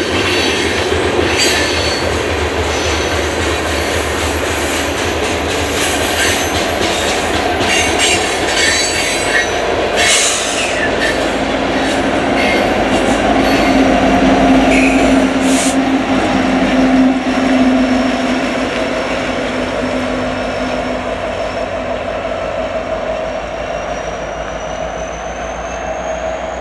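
Loaded coal cars of a long freight train rolling past with high wheel squeal and clickety-clack over the rail joints. Then the rear distributed-power diesel locomotive, an EMD SD70ACe, goes by: its engine drone is loudest about halfway through and fades slowly as the train moves away.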